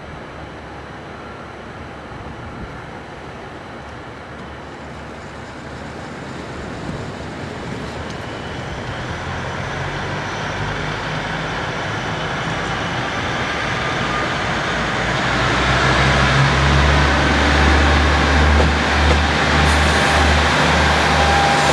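Diesel train approaching, its engine rumble and running noise growing steadily louder and reaching full strength about two-thirds of the way through.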